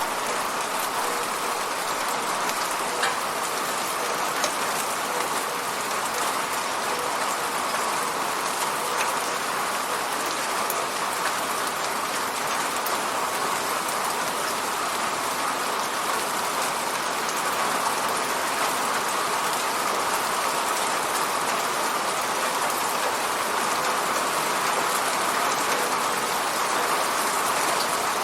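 Steady rain hitting an apartment window, a dense even patter with scattered individual drop ticks.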